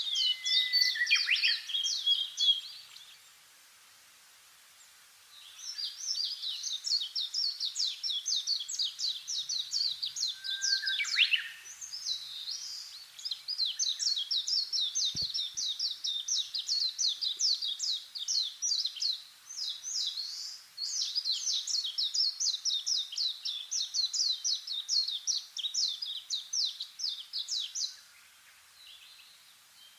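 Small birds chirping: long runs of rapid, high chirps, broken by a few lower sliding notes and two short pauses.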